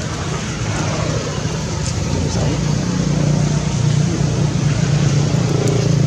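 A motor vehicle's engine running steadily, growing gradually louder as it comes closer.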